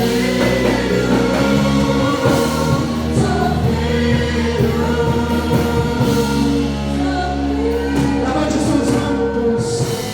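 A praise team sings a gospel worship song over sustained instrumental backing, with several voices together and steady held low notes underneath.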